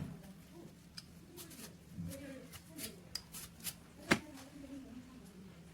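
Quiet handling noises from pistol parts being worked on: scattered small clicks and rustles, with one sharper click about four seconds in.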